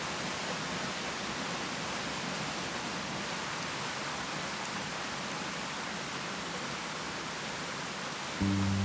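Rainbow Falls waterfall giving a steady, even rush of falling water. Near the end a low, held musical drone comes in over it.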